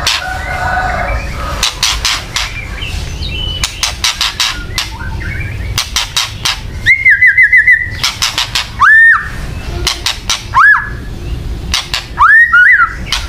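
Songbird kretekan: a dense, dry ticking rattle, broken later by loud, sharp upslurred whistles, first a quick run of about five notes, then three single whistles a second or two apart. It is the agitated kind of call that bird keepers play to provoke white-rumped shamas.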